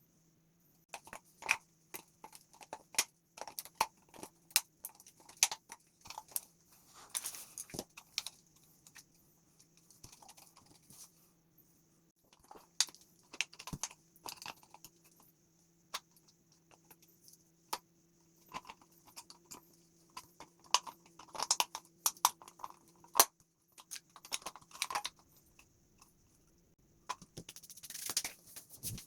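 Irregular clicks, taps and small crunches of plastic parts being handled and worked on close to the microphone, over a faint steady hum.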